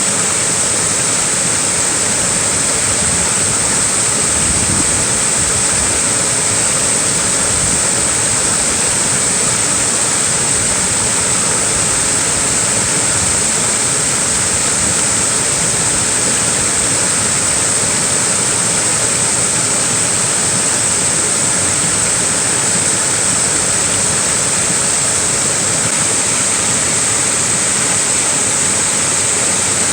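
Small waterfall splashing in a steady, unbroken rush of falling water.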